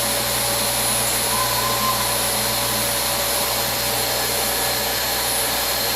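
Vacuum cleaner running steadily: an even rushing of air with a constant high motor whine over it.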